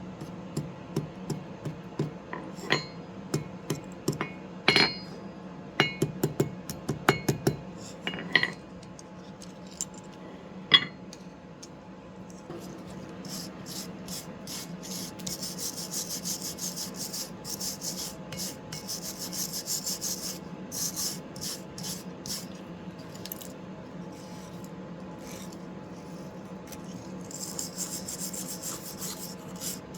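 Scattered light metallic taps and clinks with a short ring through the first ten seconds or so, then a long run of rhythmic rasping strokes on the forged steel leaf, a hand abrasive tool scraping back and forth across the metal.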